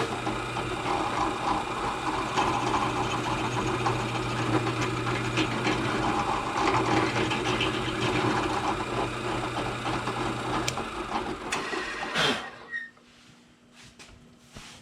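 A motor-driven machine runs steadily with a low hum for about twelve seconds, starting and stopping abruptly.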